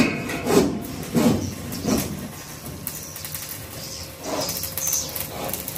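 Rhythmic rasping strokes of hand-tool work on the construction site, about three strokes every two seconds, fading after about two seconds into a few fainter, hissier scrapes.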